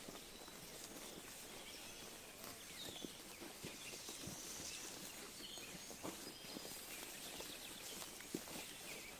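Sheep grazing close by, with irregular short tearing and crunching sounds of grass being pulled and chewed. Faint bird chirps come and go through a soft outdoor hiss.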